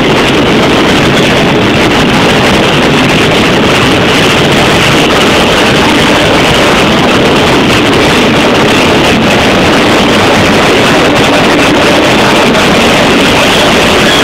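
Passenger train coach running along the line: a loud, steady rush of wheel and coach noise mixed with wind buffeting the microphone at the open window.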